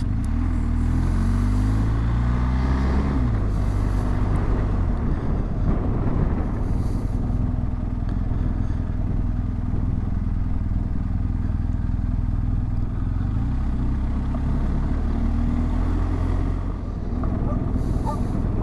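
BMW R 1250 GS boxer-twin engine pulling under way, its pitch rising over the first three seconds, dropping sharply, then rising again later, over steady wind noise.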